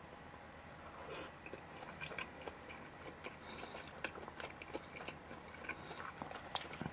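Faint chewing of a mouthful of hashed beef and rice, with scattered small clicks and ticks.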